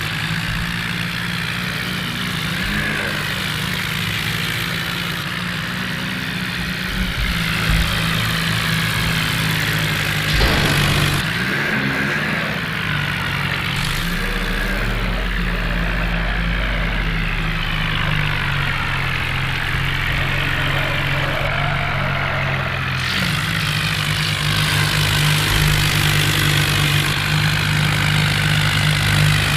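Tractor diesel engines running steadily at a low, even note, with the sound changing abruptly a few times.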